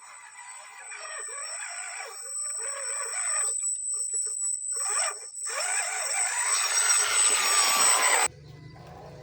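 Whine of a radio-controlled scale crawler's electric motor and gears as it drives, getting louder, then cutting off abruptly about eight seconds in, leaving a low hum.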